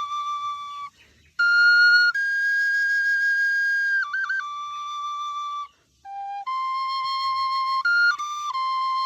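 Solo flute melody in long held notes, with quick ornamental flicks between some of them. It breaks off briefly about a second in and again near six seconds.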